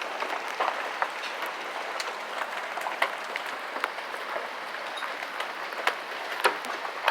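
Hail falling: a dense patter of hailstones striking, with many sharp separate hits standing out above a steady hiss. One louder hit comes late on.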